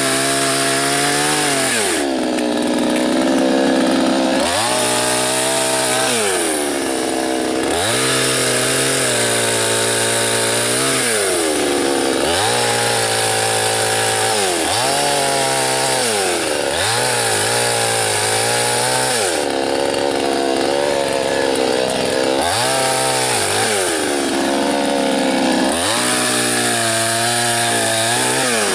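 Soyuz PTS-99520T two-stroke chainsaw cutting a dry birch trunk into firewood logs. The engine speed repeatedly sags and climbs back, every two to three seconds, as it works through the wood.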